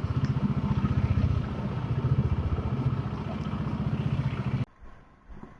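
Bajaj Dominar 400's 373cc liquid-cooled single-cylinder engine running with a steady, even pulse, then cutting off suddenly near the end.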